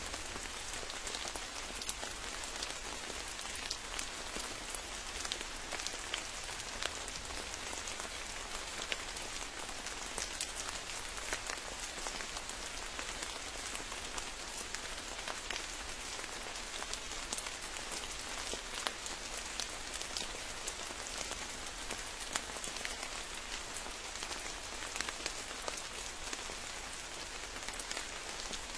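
Steady rain falling on a forest, an even hiss of rainfall with many distinct drops pattering close by.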